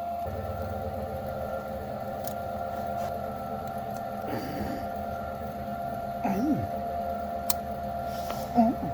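A small electric motor running steadily with a constant whine.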